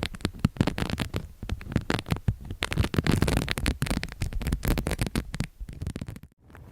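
Close-miked ASMR trigger sounds: rapid, irregular crackling and clicking over a low rumble, stopping abruptly near the end.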